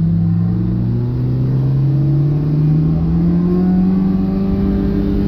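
Honda K20 four-cylinder engine in a swapped Civic pulling under throttle, its pitch climbing slowly and steadily as the car accelerates.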